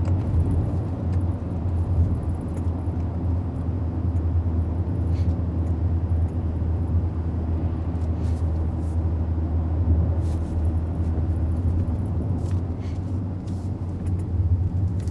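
Steady low drone of a Mercedes GLS 400d's 3.0-litre inline-six diesel and its tyres on the road, heard from inside the cabin while driving in sport mode. The level stays even, with no rise or fall in pitch.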